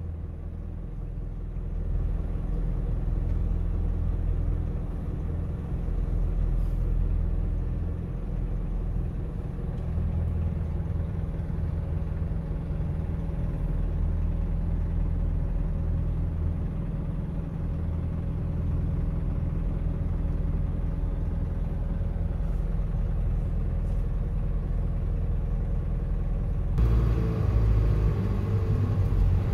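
Car engine idling with a steady low rumble, heard from inside the cabin while stopped at traffic lights. Near the end it grows louder and rises in pitch as the car pulls away.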